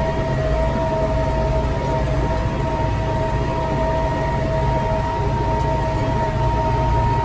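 Tractor engine running steadily while raking straw: a low drone with a steady high-pitched whine over it.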